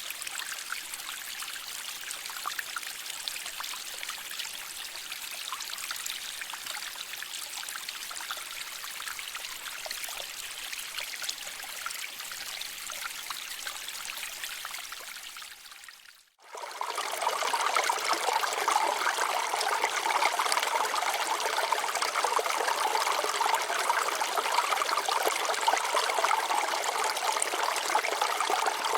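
Water flowing and trickling over rocks in a stream, a steady babbling rush. A little over halfway it fades out briefly, then returns louder and fuller.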